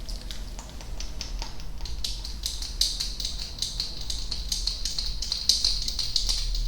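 Close-microphone ASMR trigger sounds: a rapid run of crisp clicks, growing into a dense high crackle about two and a half seconds in.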